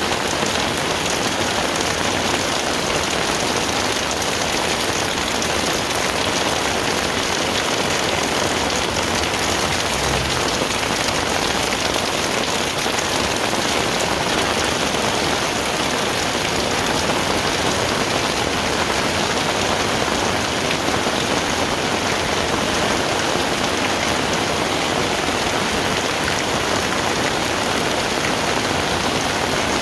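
Heavy rain falling steadily: an even, unbroken hiss of drops on the ground and surfaces.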